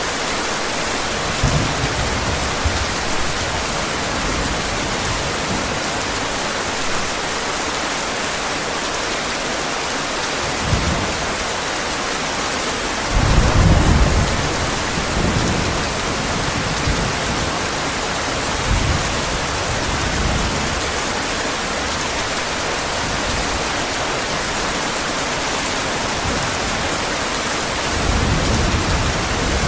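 Heavy rain falling steadily, with several low rumbles of thunder; the longest and loudest roll comes about halfway through, and another builds near the end.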